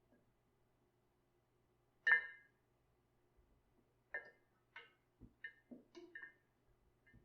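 Glass clinking: one clear ringing clink about two seconds in, then a quick run of lighter clinks and dull knocks.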